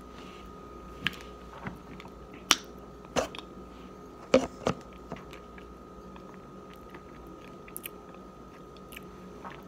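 Chewing a mouthful of cornstarch chunks: a series of sharp, crisp clicks as it is bitten and crushed between the teeth, most of them in the first five seconds, then a few fainter ones.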